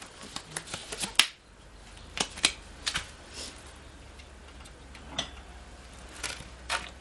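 Irregular sharp clicks and knocks of tools and parts being handled during hand work on a mower, the loudest about a second in, a cluster a second later and a few more near the end.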